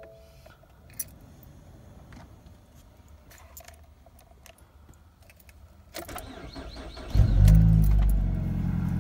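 A few faint clicks, then the 2014 Ford Fusion's 2.5-litre four-cylinder, with its muffler deleted, cranks over about six seconds in. It catches a second later with a loud flare and settles into a steady cold-start idle, heard from inside the cabin.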